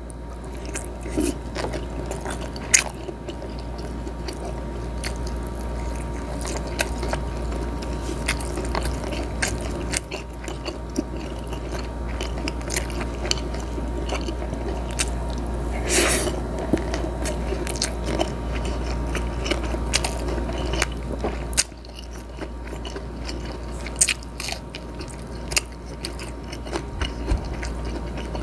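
Close-miked chewing and biting of grilled squid, with wet mouth sounds and sharp clicks scattered throughout, over a steady low hum.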